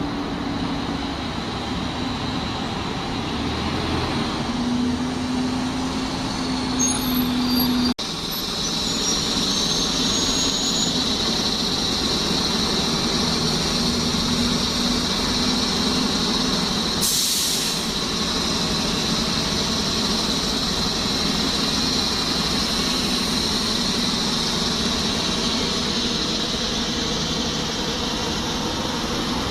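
Heavy vehicle engines running steadily, a bus or train at a station. The sound breaks abruptly about eight seconds in, then carries on as a steady hum with a high whine, with a short hiss about seventeen seconds in.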